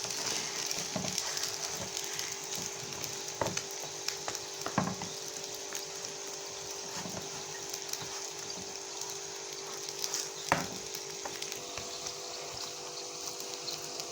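Pastry frying in a lightly oiled non-stick pan over low heat: a steady soft sizzle, with a few sharp clicks and knocks now and then.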